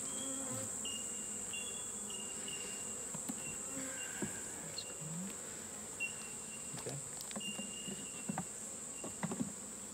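Honeybees buzzing around an open nucleus hive, a steady low hum, over a constant high-pitched insect drone, with scattered light knocks and clicks from handling the hive.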